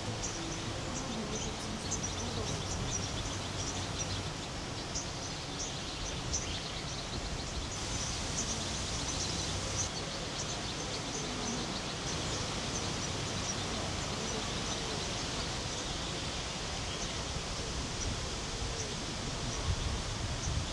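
Outdoor rural ambience: a steady rushing noise with many short, high bird chirps scattered throughout.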